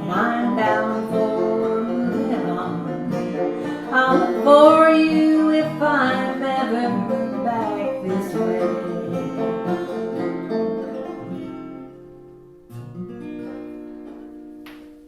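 End of a folk song on acoustic guitar, with a last sung phrase over the strumming in the first half. The playing fades, then a final strummed chord about 13 s in rings out until it cuts off suddenly.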